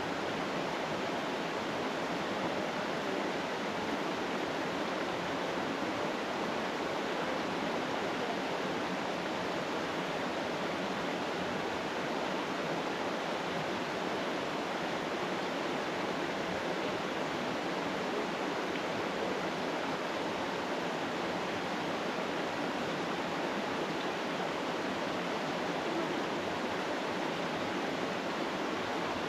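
Waterfall rushing: a steady, even hiss of falling water with no change.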